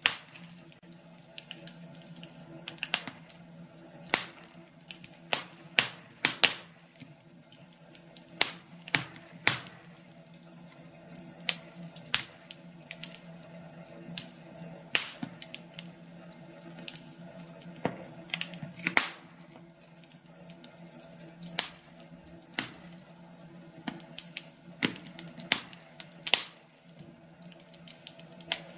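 Wood fire burning in a fireplace, crackling with irregular sharp pops and snaps, several a second, over a faint steady hum.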